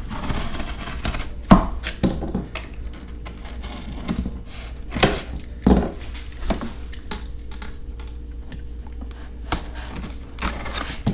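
Packaging around a portable outboard fuel tank being handled and cut open: scattered knocks, clicks and rustles, the sharpest knock about one and a half seconds in and a few more near the middle.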